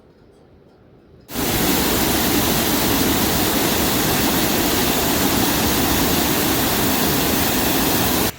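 Loud, steady rush of water, like a waterfall or torrent, starting abruptly about a second in and cutting off suddenly at the end.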